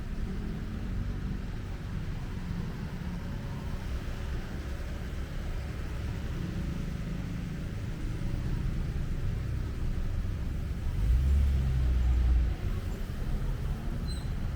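City street traffic: motor vehicles running by with a steady low rumble, which swells louder for about a second and a half around eleven seconds in.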